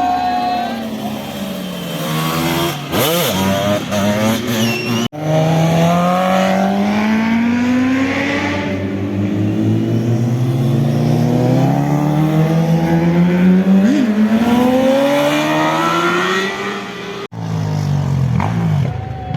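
Motorcycle engines accelerating hard, the engine pitch climbing steadily through the gears with drops at each shift, and quick sharp revs about 3 seconds in and again near 14 seconds. The sound breaks off abruptly twice, as separate passes are joined together.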